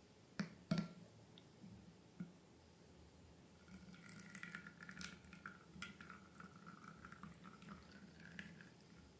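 Two sharp taps about a second in, then several seconds of wet squelching and dripping as slime ingredients are handled.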